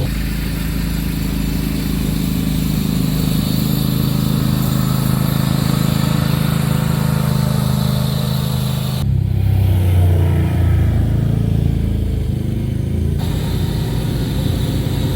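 Small vehicle engine running steadily while clearing snow. About nine seconds in, the sound shifts for a few seconds to a lower, louder hum.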